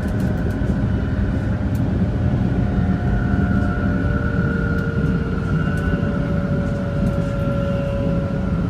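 Train running noise: a steady low rumble with faint, drawn-out whining tones over it.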